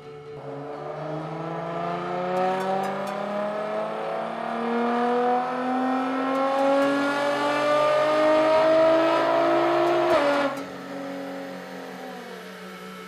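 2010 Nissan GT-R's twin-turbo V6 making a full-throttle pull on a chassis dynamometer. The engine note climbs steadily in pitch and grows louder for about ten seconds, then cuts off sharply as the throttle is lifted and drops back to a lower, steady note.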